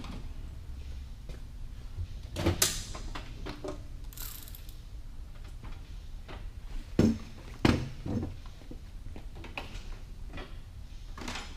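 Hand tools and metal transmission parts knocking and clinking while the clutch slave cylinder is taken off a manual gearbox. A few sharp knocks come out of a low background: two close together about two and a half seconds in, and three more a little past the middle.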